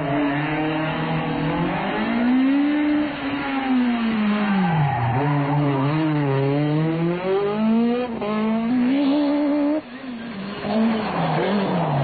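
Renault Mégane Maxi rally car's four-cylinder engine revving hard, its pitch repeatedly climbing and then dropping through gear changes and braking. About ten seconds in, the sound cuts to a second rally car's engine.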